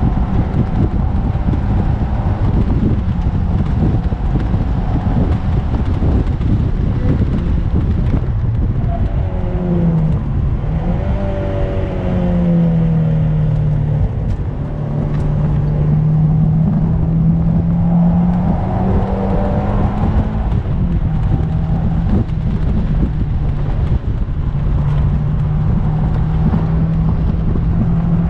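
Mazda MX-5 NC with a swapped-in 2.5-litre engine, heard from inside the open cockpit while driven hard on track: the engine note sweeps up and down with the revs about ten seconds in and again near twenty seconds, holding steadier in between. Heavy wind and road rumble run under it throughout.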